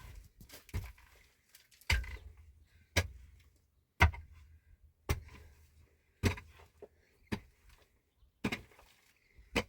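A steady run of sharp blows, about one a second, each knock dying away quickly: someone striking something repeatedly by hand.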